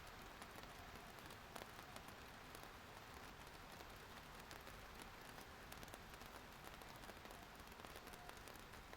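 Faint, steady rain: an even hiss with many separate drops ticking on a surface.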